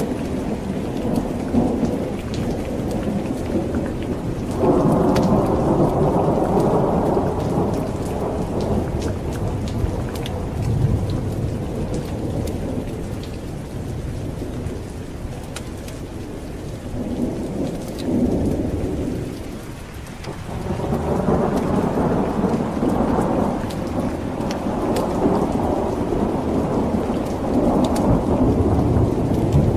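Steady rain with rolling thunder. A long rumble swells about five seconds in, a shorter one comes near eighteen seconds, and a longer one builds from about twenty-one seconds to the end.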